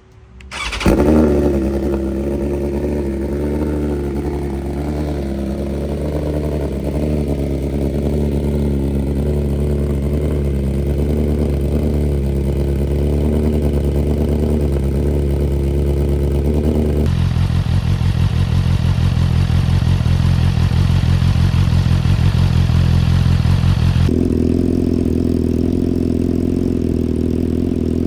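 A BMW S1000RR's inline-four engine started from cold: a brief crank, the engine catching about a second in, then idling steadily. The engine's tone changes abruptly twice, about 17 and 24 seconds in.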